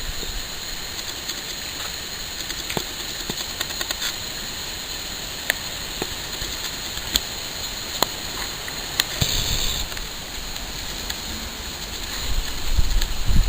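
Storm ambience of rain and wind: a steady hiss with scattered sharp ticks like drops striking, then, near the end, wind gusts starting to buffet the microphone with a low rumble.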